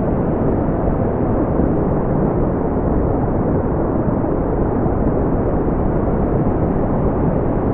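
Brown noise: a steady, deep, rumbling hiss, strongest in the low end and dull in the treble, with no change in level.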